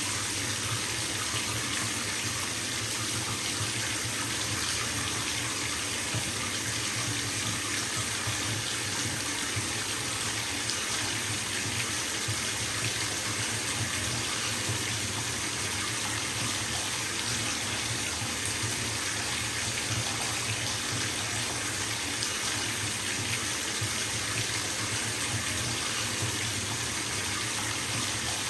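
Bathtub filling from a running tap: a steady, unbroken rush of water splashing into the tub, with a low rumble under the hiss.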